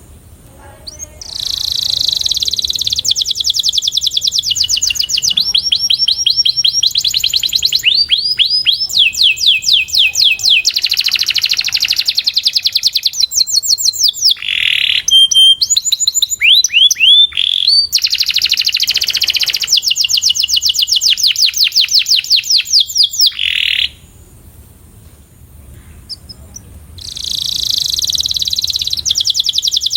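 Canary singing a long, continuous song of rapid trills, switching from one repeated-note phrase to the next every few seconds; it breaks off for about three seconds near the end, then starts trilling again.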